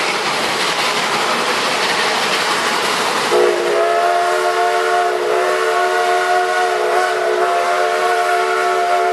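A steam locomotive's whistle blows one long blast, several tones sounding together, starting about three seconds in. Before the whistle there is only the steady running noise of the train heard from aboard.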